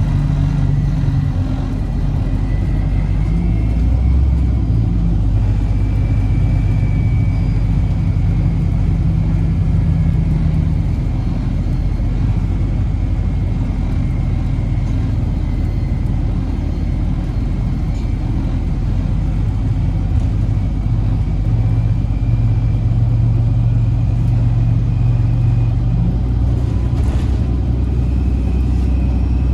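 Inside a 2008 Orion VII NG hybrid-electric city bus under way: the Cummins ISB diesel and BAE HybriDrive driveline make a steady low drone whose pitch shifts, with a faint high whine that slowly rises and falls.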